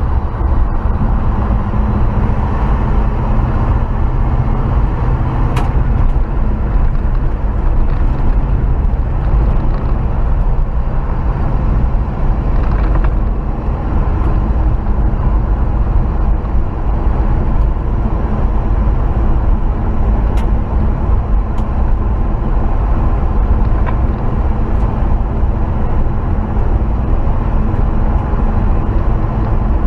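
1968 Chevrolet C20 pickup driving steadily at road speed, its engine running with the newly fitted intake that replaced the old 2-barrel, over a continuous road rumble.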